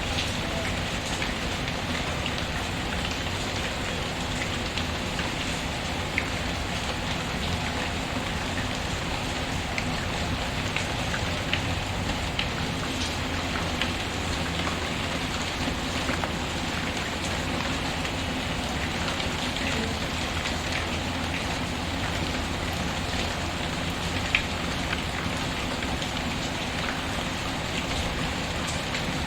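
Steady rain pattering on a surface, mixed with a wood fire's occasional sharp crackles and snaps; the loudest snap comes about 24 seconds in.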